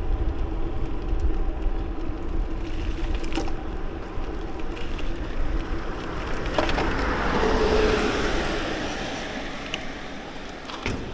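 Wind rumbling on the microphone of a moving bicycle, with a passing car's road noise swelling to a peak about eight seconds in and then fading.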